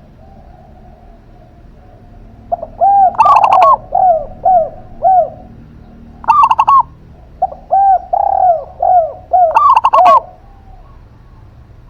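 Doves cooing, a zebra dove (perkutut) and a derkuku: two runs of short arched coos repeated several times a second, broken three times by louder, higher, rougher notes.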